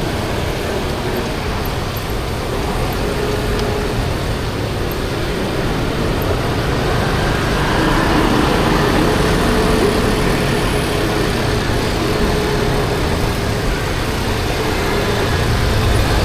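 Dense street traffic heard from a moving 50cc Kymco Like scooter: a steady mix of small motorbike engines and road noise. It gets slightly louder about halfway through.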